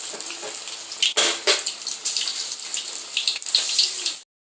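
Chicken 65 pieces deep-frying in hot oil: a loud, steady sizzle with sharp crackles and pops. It cuts off abruptly near the end.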